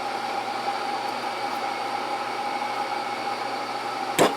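Steady mechanical whir with a constant high-pitched whine running through it, and a single sharp click about four seconds in.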